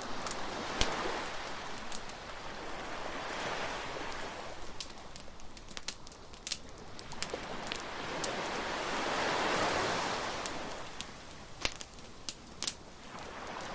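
Beach bonfire crackling with scattered sharp pops over surf, the waves swelling and fading every few seconds.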